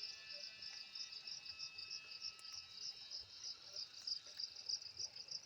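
Cicada singing: a high-pitched buzz made of rapid, evenly repeating pulses, going on without a break.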